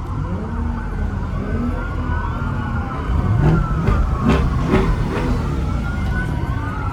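Several police sirens wailing at once, their pitches rising and falling and overlapping, over a low vehicle rumble that grows louder about halfway through.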